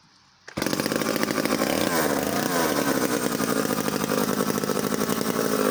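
Danarm DDA110 two-stroke chainsaw engine starting abruptly about half a second in and running loud, its revs rising and falling a little. The saw, bought as non-working with no spark, now runs after a new plug and some cleaner.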